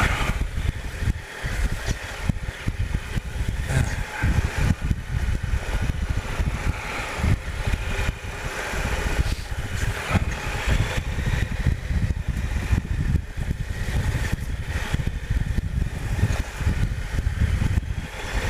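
Triumph Explorer 1215cc three-cylinder engine running as the motorcycle is ridden along a rough track, a constant low rumble broken by many short knocks and jolts.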